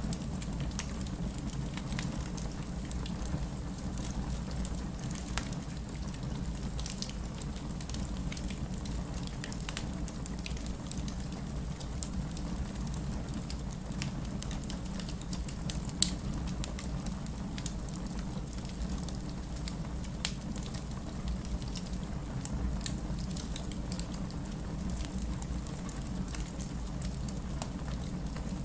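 Wood fire burning in a fireplace: a steady low rumble of flames with frequent small crackles and pops of splitting wood, one sharp louder pop about halfway through.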